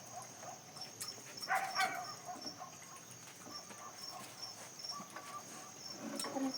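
Crickets chirping in a steady, evenly pulsed high trill, with a short pitched animal sound about a second and a half in and a few light clicks.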